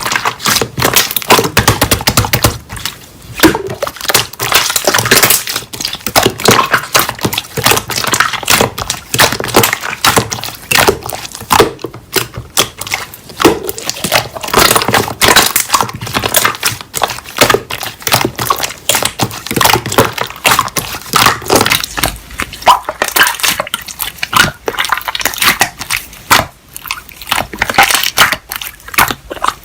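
Slime being squished and pressed by hand: a dense, irregular run of sticky popping and crackling clicks.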